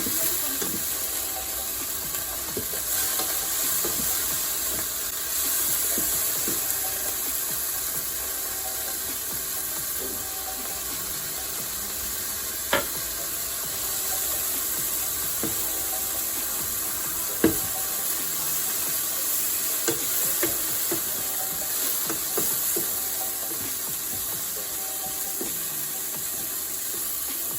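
Diced chicken breast sizzling in hot olive oil in a pan while being stirred. A utensil knocks against the pan now and then, with two sharper knocks near the middle.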